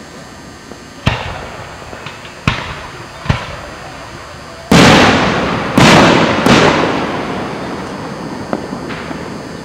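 Aerial firework shells bursting. Three sharp bangs come in the first few seconds, then three much louder booms close together about halfway through, each rumbling away over a second or more.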